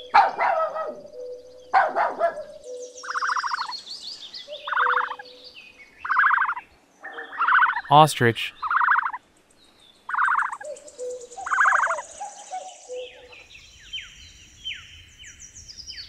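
A puppy whining and yelping in short calls about every second and a half, with small birds chirping in the background and more high, falling chirps near the end.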